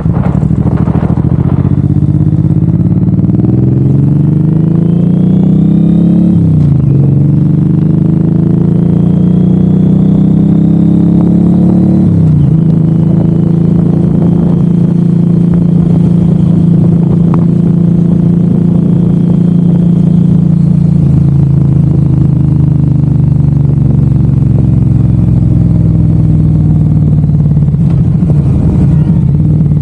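Suzuki M109R's big V-twin engine pulling up through the gears: the pitch rises, drops suddenly at a shift about six seconds in, rises again and drops at a second shift about twelve seconds in, then holds steady at cruise, easing off slightly near the end.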